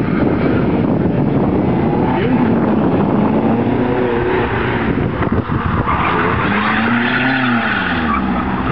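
Mk2 VW Polo's 1.4 16-valve engine on motorcycle carburettors, revving up and down hard as the car is thrown through a cone slalom. Its tyres squeal through the turns in the second half.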